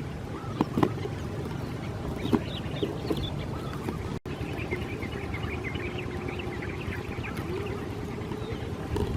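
Swamp ambience: many birds calling in short, quick chirps over a steady low rumble, with a few sharp knocks in the first few seconds. The sound cuts out for an instant about four seconds in, and afterwards a low held tone runs beneath the chirping.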